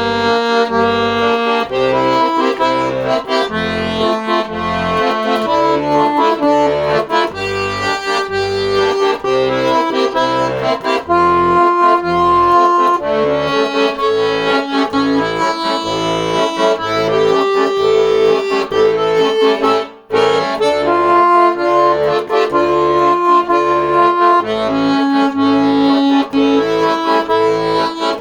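Accordion playing an instrumental passage: held melody notes over a rhythmic bass-and-chord accompaniment, with a brief break about twenty seconds in.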